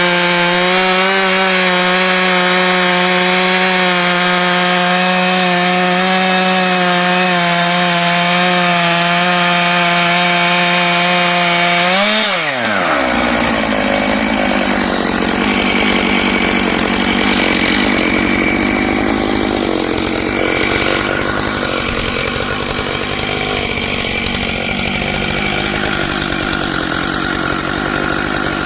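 Stihl MS661 two-stroke chainsaw, mounted in a chainsaw mill, running at a high, steady speed through a lengthwise rip cut. About twelve seconds in its pitch drops sharply, and it runs on with a rougher, noisier sound.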